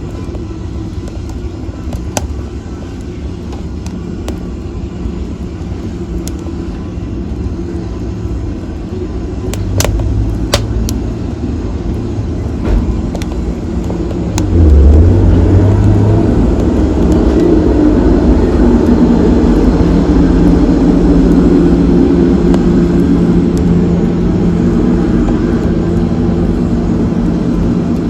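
Wood fire in a fireplace burning with a low roar and scattered sharp crackles and pops; the roar swells and grows louder about halfway through.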